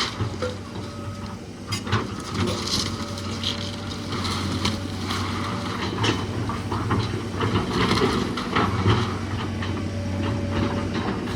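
An engine running steadily under irregular cracking and crunching of wood as the rotten old house is torn down.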